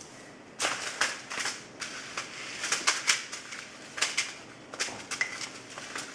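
Crinkling and crackling of a seed packet being handled, a rapid irregular series of sharp clicks starting about half a second in.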